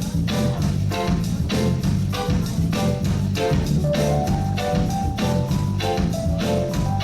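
Live reggae band playing an instrumental groove: drums keeping a steady beat, a heavy bass line and short repeated chords.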